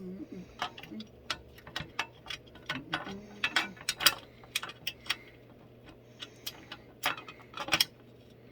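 Irregular sharp clicks and light taps, a few each second, from hand tools and screw hardware being handled while an industrial sewing machine table is put together.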